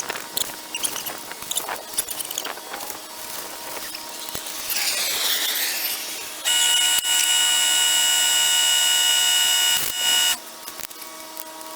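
A power tool running at a steady high whine. It starts abruptly about six and a half seconds in and cuts off about four seconds later. Before it come scattered high squeaks and clicks, and a pitch sweep that falls and rises again.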